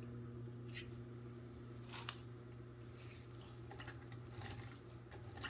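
Faint, scattered metallic clicks and light taps from a sprocket being shifted along a miniature locomotive's jackshaft and its set screws being worked, over a steady low hum.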